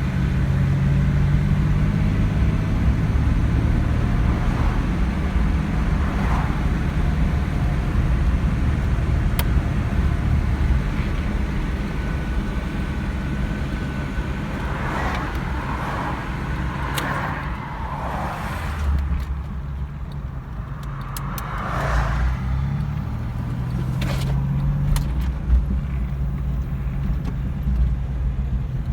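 1986 Jeep Cherokee's 2.8-litre V6 running under way, heard from inside the cabin with road noise; the engine note drops about halfway through and picks up again near the end.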